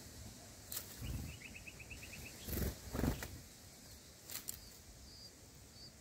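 Small bird calling outdoors: a quick run of about nine short, high chirps about a second in, with fainter chirps scattered through. A few soft thumps sound between them, the loudest two together about halfway through.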